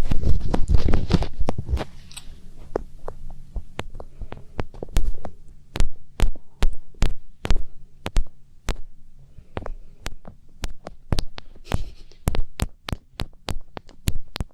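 Fingertips rubbing and tapping on the ears of an ASMR binaural microphone for a finger ear-cleaning sound: dense close rubbing for about the first two seconds, then a run of sharp, irregular taps, two or three a second.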